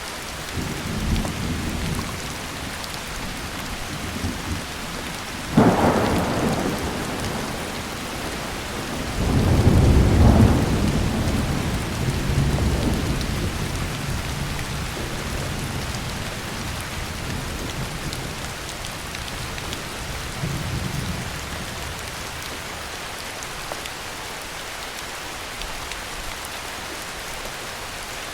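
Steady heavy rain with thunder. A sharp clap comes about five and a half seconds in, then a long, low rolling peal around ten seconds that fades over several seconds, and a fainter rumble near twenty seconds.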